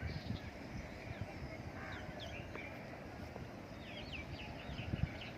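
Birds chirping in short calls, a few about two seconds in and a quicker run around four to five seconds in, over a steady faint outdoor rush with low rumble.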